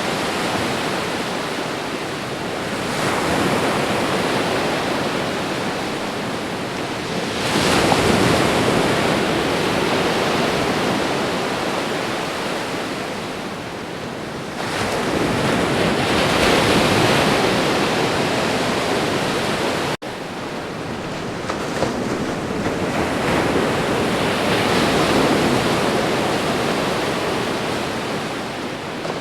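Ocean surf crashing continuously, each wave swelling up and easing off every several seconds. The sound cuts out for an instant about two-thirds of the way through.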